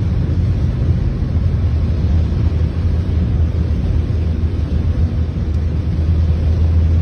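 Steady low rumble of a moving vehicle on the road, engine and tyre noise without change.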